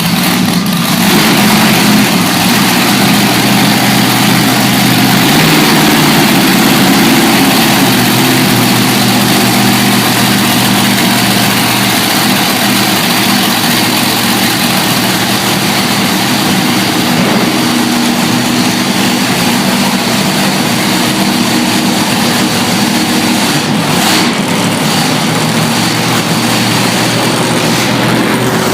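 Monster truck engine running loudly near idle, its pitch stepping up and down a little with small changes in throttle. A brief sharp knock comes near the end.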